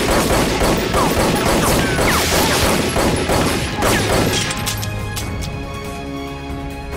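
A loud, noisy crashing burst of action sound effects over dramatic score, lasting about four and a half seconds before the music carries on alone.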